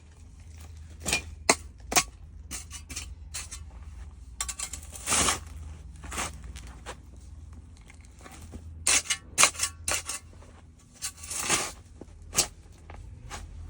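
Soil crunching and crackling: irregular sharp clicks with a few longer scraping crunches.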